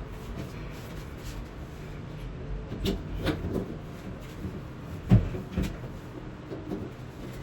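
A few separate knocks and clatters of household things being handled, like a cupboard door or objects set down, the sharpest and loudest about five seconds in.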